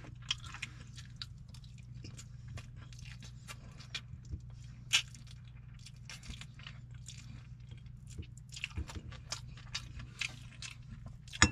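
A person chewing and crunching a mouthful of tilapia sisig and rice close to the microphone, in many short sharp clicks, one louder about five seconds in, over a steady low hum.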